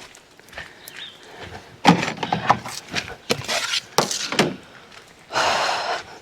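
A stretch of knocks and handling clatter, then near the end one long breath blown onto smouldering embers to bring the fire back to flame.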